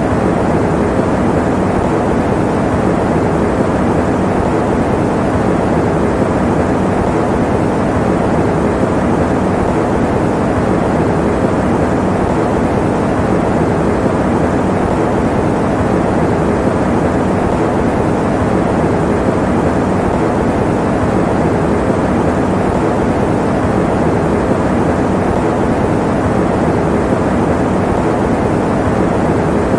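Electric fan running: a steady, even, dull rushing noise with no change.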